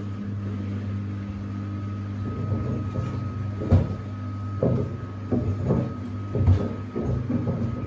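Samsung WD70T4047CE washer-dryer on its final spin with two pairs of sneakers in the drum: a steady motor hum with a thin whine, and irregular knocks and thuds from the shoes banging in the drum, coming more often from about three and a half seconds in. These are sounds the owner did not hear during the wash.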